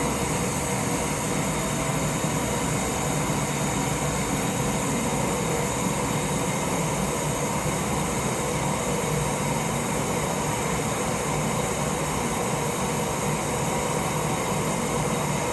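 Propane camp stove burner running at full under a pot of water: a loud, steady rushing noise of gas and flame that holds unchanged throughout.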